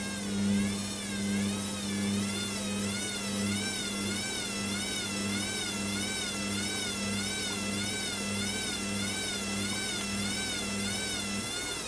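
Hoover washer dryer's drum motor whining as the drum turns at distribution speed, trying to balance the load before the spin. The whine wobbles up and down in pitch with each turn of the drum, and a low hum pulses at first, then evens out and drops away near the end.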